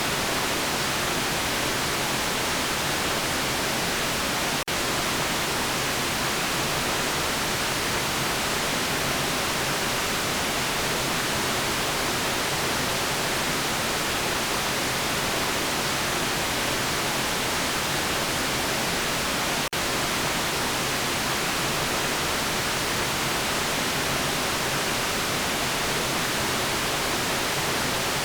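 Steady synthetic white noise, an even hiss brightest in the treble, with two very brief dropouts about five seconds in and about twenty seconds in.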